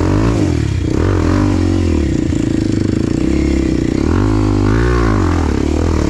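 Enduro dirt bike engine running under load, its revs rising and falling twice as the throttle is worked.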